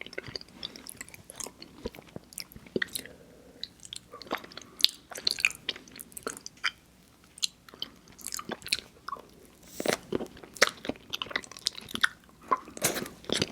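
Close-miked mouth sounds of someone eating mochi ice cream: irregular wet smacks and sticky clicks of chewing, coming thicker near the end.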